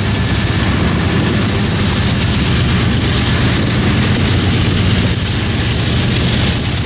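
Freight train passing close by: a steady, loud low rumble under a wide hiss of wheels rolling on rail.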